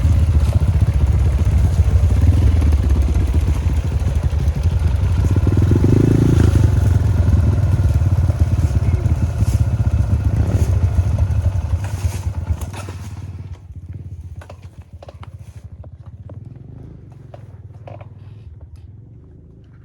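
Dirt bike engine running steadily. About two-thirds of the way through the sound falls away sharply, leaving a quieter stretch with scattered small clicks and knocks.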